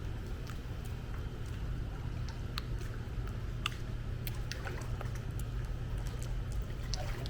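Pool water dripping and lapping, with small scattered drips and splashes over a steady low rumble.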